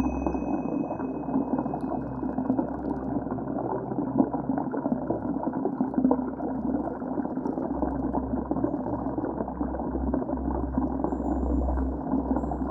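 Rushing, bubbling river water heard underwater, dull and muffled, with a deep rumble that fades and returns.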